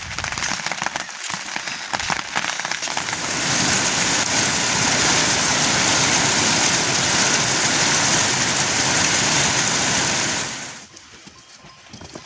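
Heavy rain falling, with many separate drop hits. About three seconds in it turns into a louder, even rush, which cuts off suddenly near the end.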